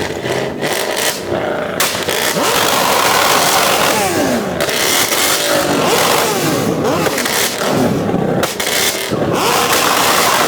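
Loud, modified vehicle engines revved over and over, their pitch rising and falling with each blip of the throttle.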